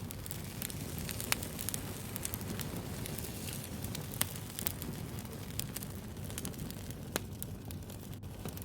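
Wood fire crackling: a steady low rumble of flames with many small, sharp pops and snaps scattered irregularly throughout.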